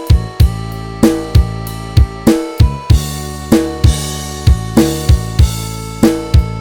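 Instrumental backing track: a drum kit plays a steady beat of bass drum and snare hits under sustained chords, with no lead guitar on top.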